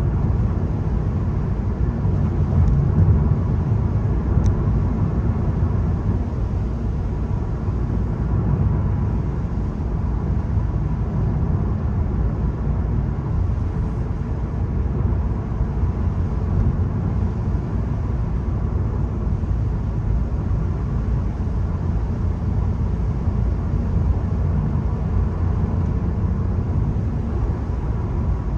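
A VW Golf with a 1.0 TSI three-cylinder turbo petrol engine being driven, giving a steady low rumble of engine and road noise with no sharp changes.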